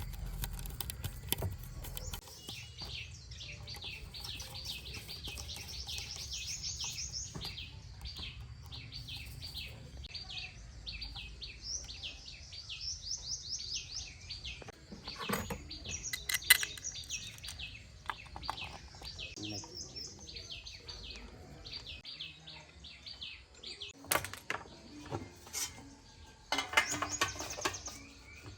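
A bird chirping in long runs of quick, high, falling notes, several a second, with a low hum underneath. A few sharp knocks sound about halfway through and again near the end.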